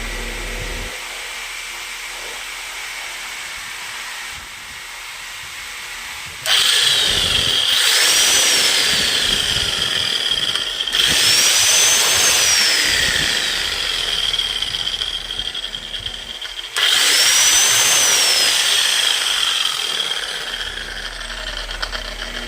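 Bosch GSH 11E demolition hammer switched on and run in three bursts of about four seconds each. In each burst the motor's whine climbs quickly and then sinks again. A quieter steady hum comes before the first burst.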